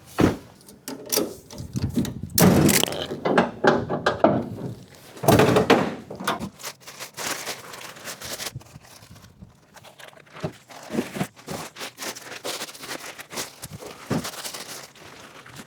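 Irregular metal clanks, thunks and scrapes of tools and engine parts being handled while an engine is removed. The clatter is busiest in the first half, with scattered knocks after.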